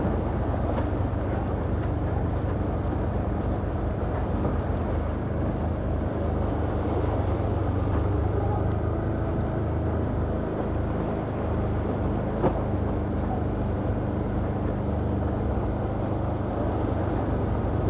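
Can-Am Outlander ATV engine running steadily under way on a muddy trail in low gear. A single brief knock about twelve seconds in.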